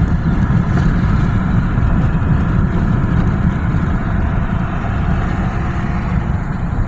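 Steady low rumble of a vehicle driving, heard from inside its cabin, with no single event standing out.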